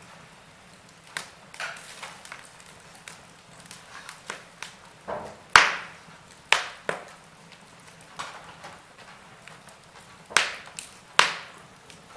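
Wood fire burning in a fireplace: irregular crackles and sharp pops over a low hiss, with four louder snaps in the second half.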